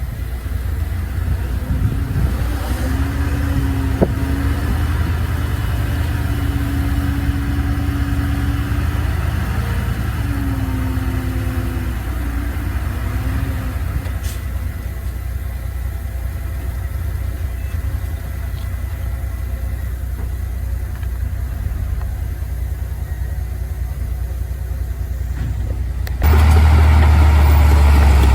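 Heavy earthmoving machinery's diesel engines running steadily, with a wavering whine from about two to thirteen seconds in. Near the end the sound jumps suddenly to a louder, deeper engine sound.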